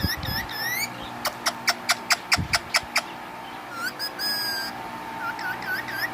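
Pet parakeet chirping in short rising and falling notes, with a quick run of about nine sharp clicks about a second in.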